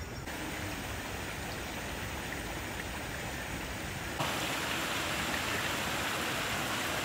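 Steady rushing of water, getting louder and brighter about four seconds in.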